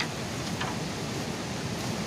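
River water rushing steadily over the riverbed, with a faint tick or two.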